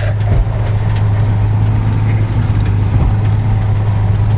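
Car engine and road noise as a steady low drone, heard from inside the vehicle while it drives on an icy road, with a brief sharp knock at the very start.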